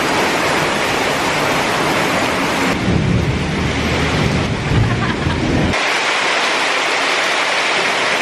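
Heavy rain falling steadily, with a deep low rumble for about three seconds in the middle that cuts off suddenly.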